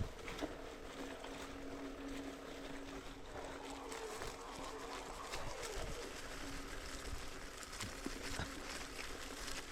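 Mountain bike rolling along a forest single-track trail: rough trail and wind noise with a steady hum and scattered small knocks.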